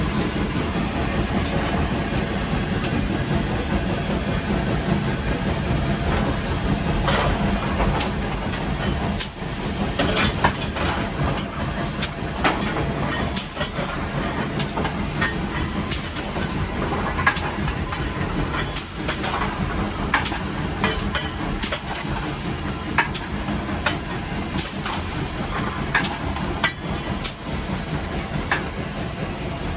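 Steam locomotive heard from inside its cab while working up a grade: a steady heavy rumble with hissing steam, and sharp clicks and knocks at irregular intervals from about seven seconds in.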